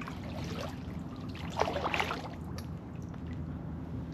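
Kayak paddle strokes in calm water, the blades splashing in and water trickling and dripping off them, with the biggest splash about halfway through.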